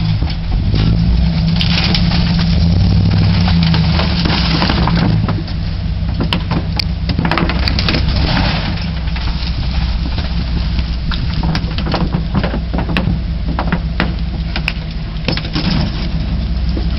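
Ford truck engine running steadily, with scattered sharp clicks and crackles over it.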